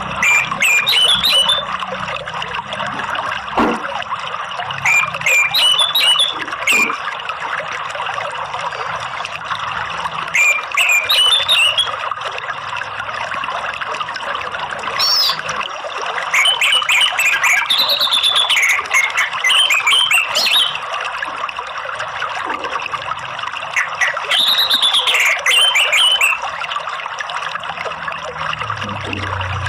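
Steady trickling running water with short, bright bird-song phrases breaking in every few seconds, the song of an orange-headed thrush (anis merah), played as a song-therapy track for caged birds.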